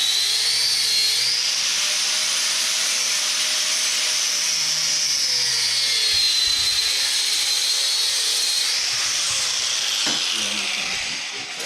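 High-speed electric power tool running under load on metal, a steady high whine that wavers slowly up and down as the load changes, easing off near the end.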